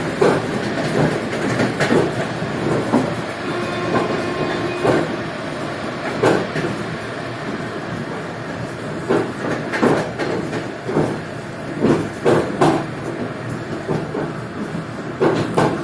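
Passenger train running along the track: a steady rumble of the wheels with irregular sharp clacks as they pass over rail joints.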